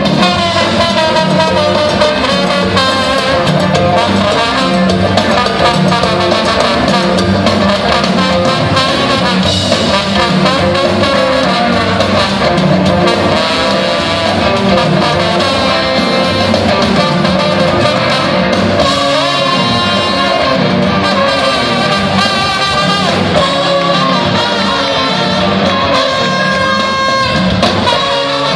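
Live band jam played loud: electric guitars over bass and drums, with a sustained lead melody carried on top.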